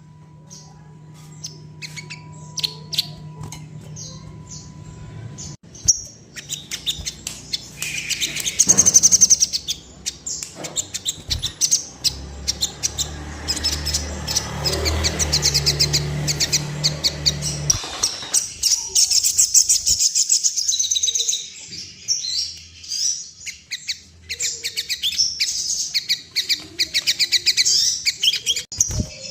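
A sogon bird singing hard in rapid, high-pitched chirping trills that run on with few breaks. This is the 'gacor' lure song used to set other sogon birds displaying and singing. A low hum sits underneath at times.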